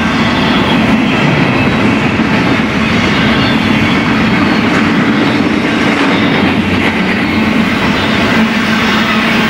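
BNSF freight train rolling past on the Needles Subdivision main line: a steady, loud rumble of steel wheels on the rails.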